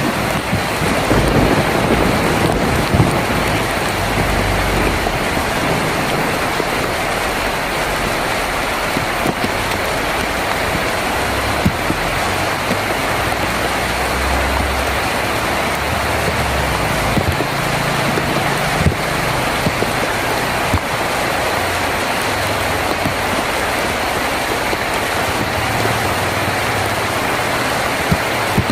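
Heavy rain drumming steadily on a tin roof, with a few sharper drop ticks and several low rumbles of thunder.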